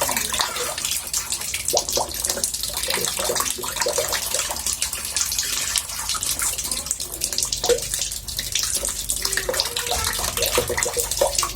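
Water in a bathtub murmuring steadily, with many small irregular splashes and bubbling gurgles.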